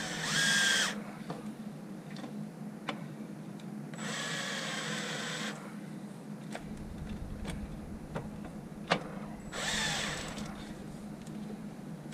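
Cordless drill-driver driving a screw into a bracket in three short bursts of motor whine: the loudest right at the start, a longer one around four seconds in, and a short one near the end, with small clicks and knocks between.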